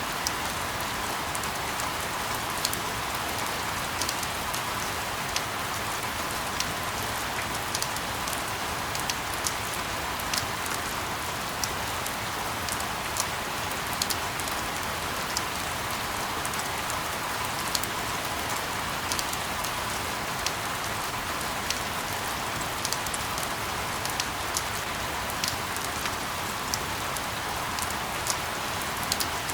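Steady rain falling, an even hiss dotted with many small, irregular droplet ticks.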